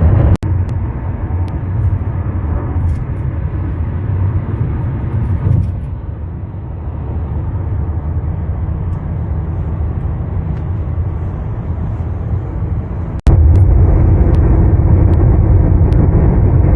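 Steady road and engine rumble heard inside a moving car. The sound cuts out for an instant twice, about half a second in and near the end, and is louder after the second cut.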